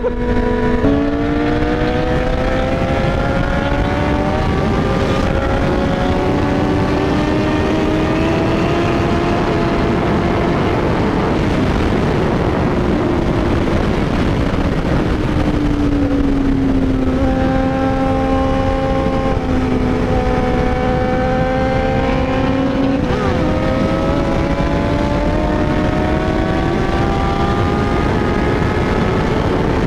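Honda CBR600RR inline-four with an open straight-through exhaust, heard from the rider's seat while cruising on the highway under steady wind rush. The engine note climbs slowly, eases back around the middle, holds level, then climbs again near the end.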